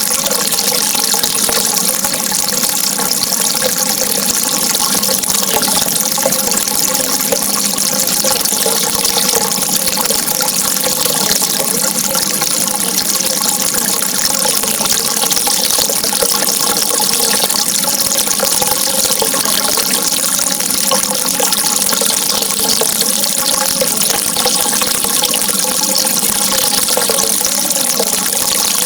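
Steady rushing of flowing water, an unbroken hiss strongest in the high range, with faint wavering tones underneath.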